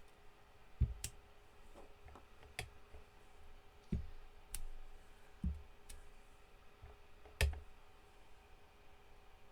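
Craft tools being handled and set down on a tabletop: scattered sharp clicks and a few soft thumps, each a second or two apart.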